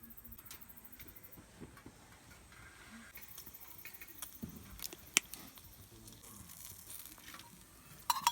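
Scattered light clicks and taps, with one sharp click about five seconds in and a quick cluster of clicks near the end.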